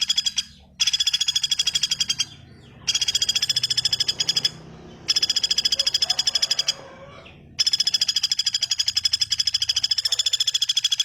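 A bird's rapid rattling trill of evenly spaced pulses, repeated in runs of one and a half to a few seconds with short pauses between them, played as a masteran training call for songbirds.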